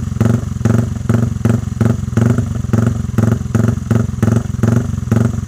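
Yamaha MX King's single-cylinder four-stroke engine idling through a Pekajaman racing exhaust, loud and lumpy, pulsing in an even rhythm about three times a second.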